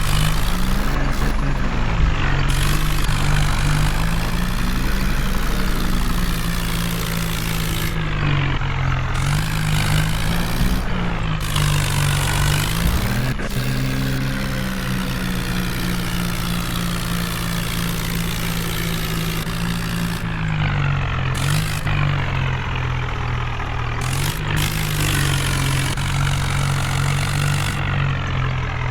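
Heavy diesel engine running steadily, its pitch rising and falling several times as it is revved up and eased off.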